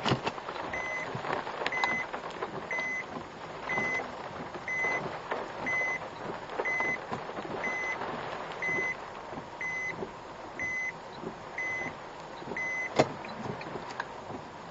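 Car's reverse-gear warning beeping, short high beeps about once a second, a dozen or so in all, stopping near the end with a sharp click, over a steady hiss of typhoon rain and wind on the car.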